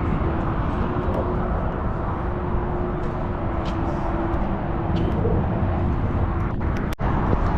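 Steady outdoor background rumble with a faint steady hum, cutting out for an instant near the end.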